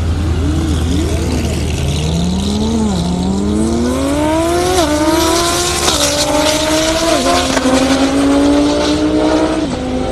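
Race cars, among them a twin-turbo Lamborghini Huracán, making a half-mile pass from a standing start: a couple of short revs, then the engine note climbs steadily with four drops in pitch as it shifts up through the gears. A steady low drone runs underneath.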